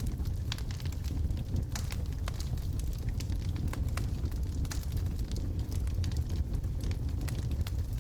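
Wood logs burning in a fireplace: many sharp, irregular crackles and pops over a steady low rumble of the fire.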